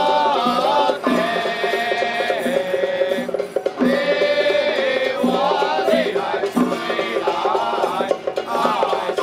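Traditional folk music: a wavering melody line over regular percussion beats.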